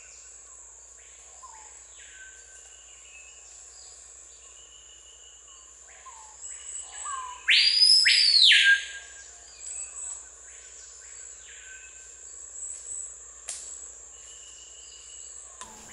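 Screaming piha calling: several loud ringing whistles that sweep up and fall back, the loudest about halfway through, over a steady high insect drone.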